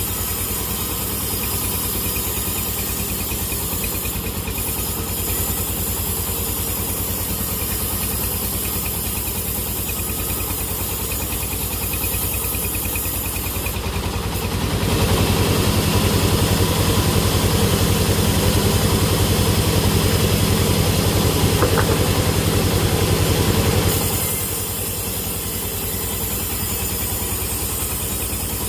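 Sawmill machinery's engine running steadily. It grows louder and noisier for about ten seconds in the middle, then settles back.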